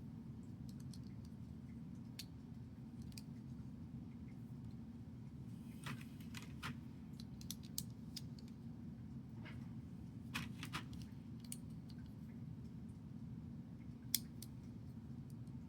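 Small plastic building bricks being handled and pressed together: scattered light clicks and taps, a few in quick clusters, with one sharper click near the end. A steady low hum runs underneath.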